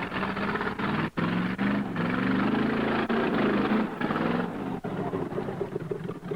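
Heavy modified mud truck's engine revving hard under load, climbing in pitch for about two seconds, then dropping back.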